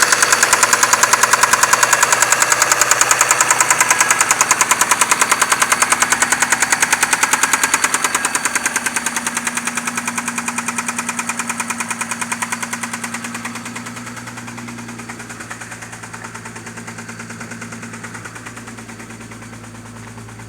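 Mitsubishi 6A13 V6 running at idle with a strong, fast, regular knock, which the owner finds worst between the cylinder heads and cannot yet trace to a cause. The knock grows steadily fainter over the second half.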